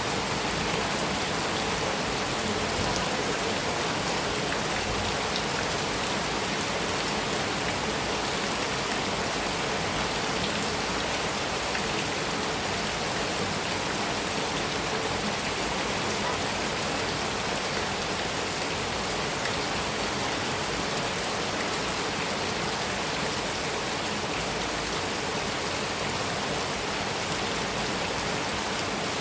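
Heavy rain falling steadily on a metal roof, a dense, even patter with no thunder.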